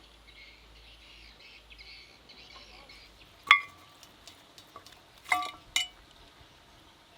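Metal utensil clinking against cookware: soft scraping for the first few seconds, then one sharp ringing clink about three and a half seconds in and two more close together near the end.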